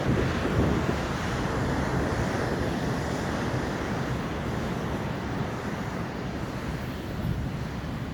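Ocean surf: a wave breaking and washing in, loudest in the first second and easing off slowly, with wind buffeting the microphone.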